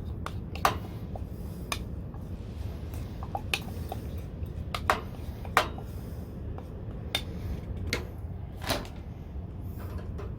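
A cooking utensil knocking and clinking against a metal pot now and then, about eight separate sharp clinks, as a thick cheese sauce is stirred through pasta.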